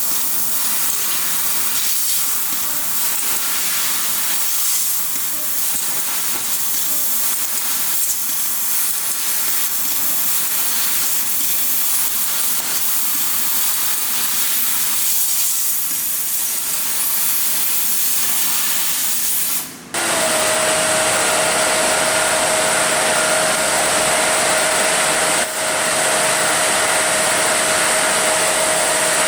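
Fiber laser cutting steel plate: a loud, steady hiss. About two-thirds of the way through it cuts off for a moment, then gives way to a steadier hiss with a constant hum-like tone.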